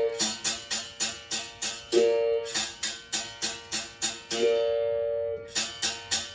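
Berimbau, the single-string musical bow, struck in a steady rhythm of about three to four quick, crisp strokes a second. About every two seconds a longer, lower note rings out, the longest held for about a second near the middle.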